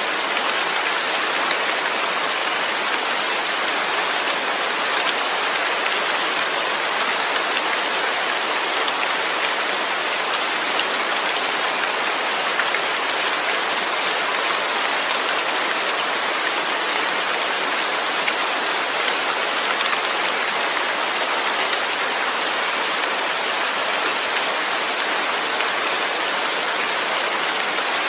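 Steady, continuous rainfall: an even hiss of rain falling on surfaces, with no breaks or changes.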